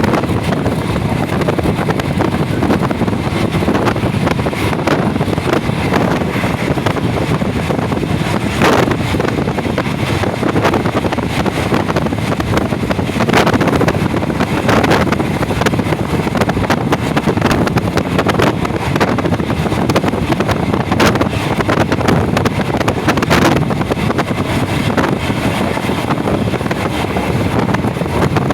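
Steady rumble and rush of a moving passenger train heard from on board, with wind noise on the microphone and occasional short knocks from the running gear.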